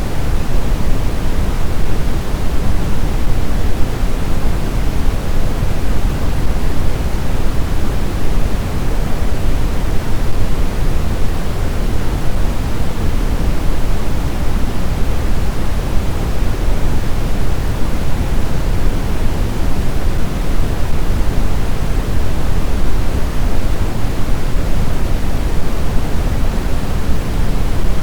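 Snowstorm wind ambience: a dense, steady rush of noise, heaviest in the low end, with no gusts, tones or separate events.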